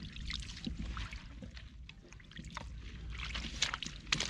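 Shallow water sloshing and trickling, with scattered light knocks and clicks.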